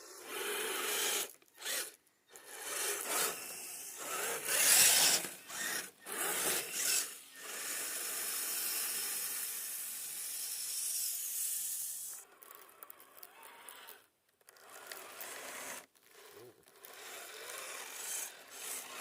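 Radio-controlled scale crawler truck driving through snow, its electric drivetrain whirring and its tyres scrabbling in stop-start bursts with brief pauses.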